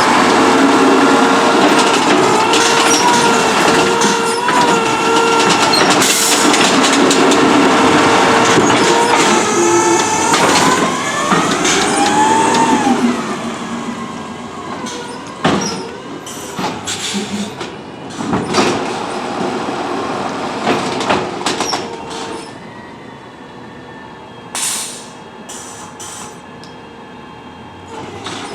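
CNG Autocar ACX garbage truck with an automated side-loader arm, its engine and hydraulics running loud with a steady whine that dips and rises in pitch around ten to thirteen seconds in. It then drops to a quieter running sound with scattered knocks and clunks.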